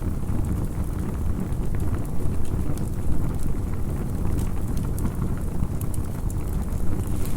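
Campfire burning: a steady low rumble with scattered small crackles and pops.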